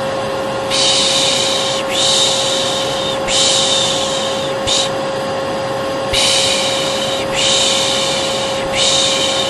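Hair dryer running with a steady hum and whine, under rhythmic 'pışş pışş' shushing to soothe a colicky baby: three long shushes of about a second each, then a short one, twice over.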